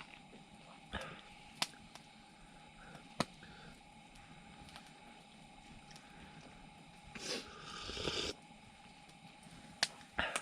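A few sharp, separate clicks and a brief rustle about three-quarters of the way through, over a faint steady hum.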